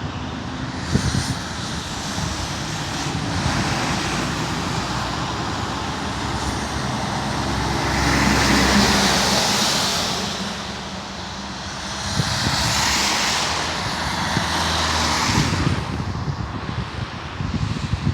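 Scania R620 truck's V8 diesel engine running, a steady low rumble with a hiss over it that swells and fades twice in the middle.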